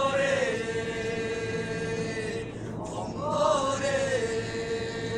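Mongolian khoomei throat singing: a low sung drone with a single strong overtone held steady above it. It comes in two phrases, each opening with a falling slide into the held overtone, with a brief break about two and a half seconds in.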